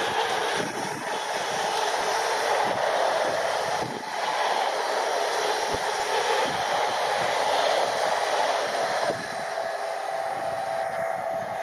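A train passing on the main line: steady rushing wheel-on-rail noise that drops in level about nine seconds in.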